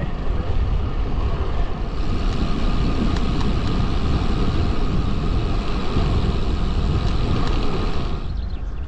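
Wind rushing over the bike-mounted camera's microphone, with tyre noise on tarmac, as a road bike is ridden along at speed. The rush eases a little about eight seconds in.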